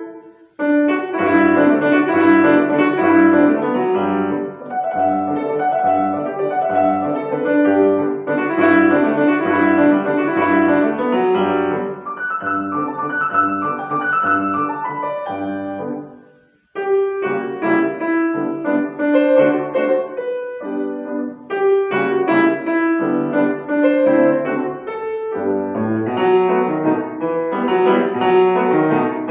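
Solo piano playing a classical piece, with a steady repeated bass note under the melody in the first half. The playing breaks off briefly a little past halfway, then carries on.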